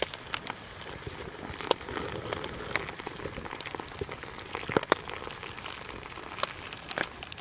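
Water trickling and dripping, with many scattered light ticks.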